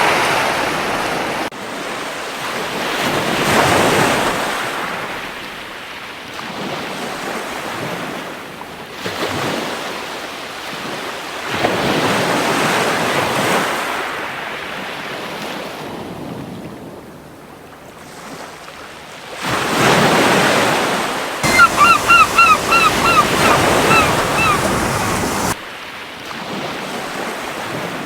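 Gentle ocean waves washing onto a beach, each swell rising and fading about every eight seconds, with some wind. A little after two-thirds of the way through, a seagull gives a quick run of about ten short calls.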